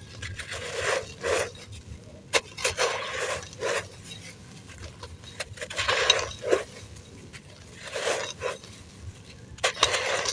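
Dry blue-dyed sand crumbling in a clay pot: a series of short, gritty crunches with a few sharp clicks.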